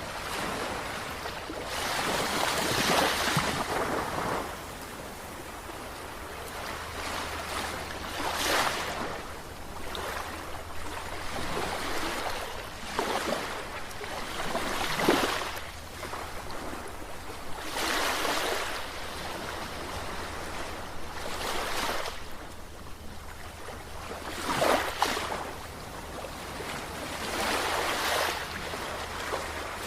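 Sea waves breaking and washing in, a surge of surf every few seconds, over a faint steady low hum.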